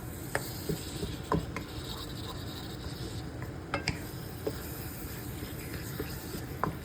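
A utensil stirring and scraping chicken pieces in a karahi, with irregular clicks of the utensil against the pan over a steady hiss.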